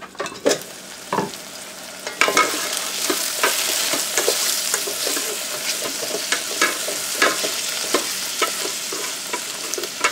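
Onions, garlic and whole spices frying in oil in a rice cooker pot. A couple of knocks come first as the glass lid is lifted off. From about two seconds in there is a steady loud sizzle, with a wooden spoon scraping and knocking against the pot as the mixture is stirred.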